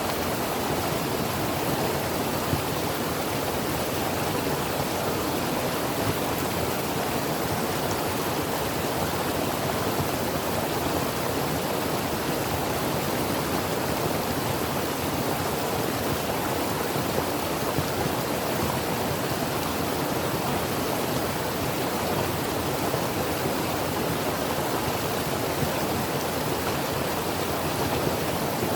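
Creek water flowing and babbling over rocks, a steady rushing that does not change.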